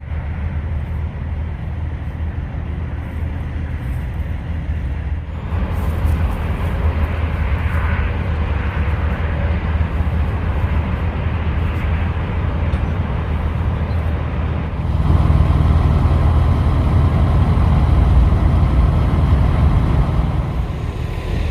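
Semi truck's engine running, a steady low drone that grows louder about five seconds in and again about fifteen seconds in.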